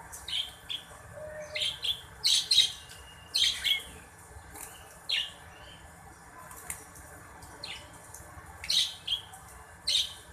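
Small birds chirping: short, sharp, high chirps scattered irregularly, some in quick clusters of two or three.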